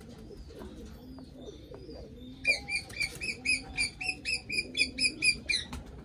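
Pigeons cooing low in the background. From about two and a half seconds in, a small bird chirps rapidly and loudly for about three seconds, some five short chirps a second.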